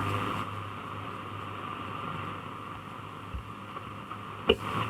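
Grundig Satellit 2100 shortwave receiver hissing with static between stations, a faint hum underneath, with a sharp click at the start and another near the end.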